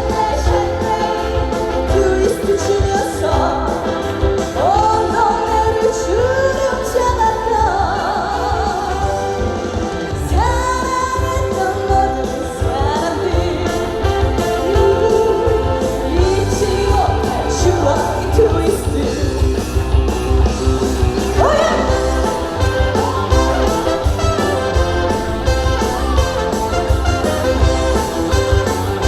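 A woman singing a trot song live over an amplified backing track with a steady, heavy beat.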